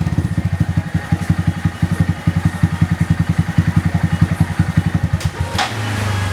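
Honda Monkey 125's single-cylinder four-stroke engine idling through a Yoshimura RS3 full exhaust system, a steady even chuff of about a dozen exhaust pulses a second. Near the end the revs pick up briefly.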